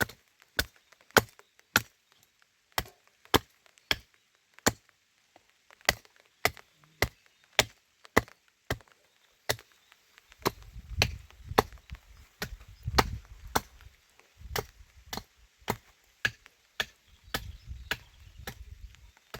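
Steady chopping: sharp, short blows at about two a second, with brief pauses, and a low rumble under them from about ten seconds in.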